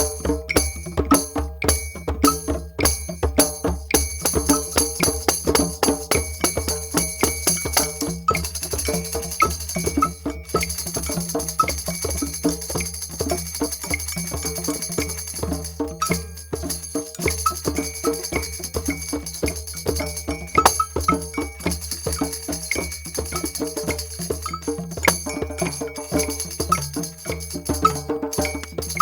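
Group drum session: several drums struck in a fast, steady rhythm, with jingling percussion like a tambourine or bells shaking over them.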